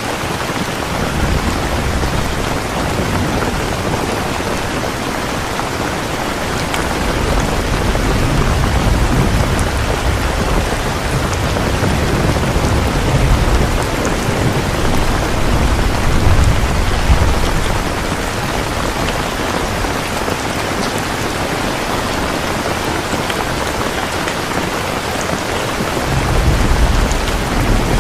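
Steady heavy rain, a dense even hiss, with low thunder rumbling and swelling several times underneath.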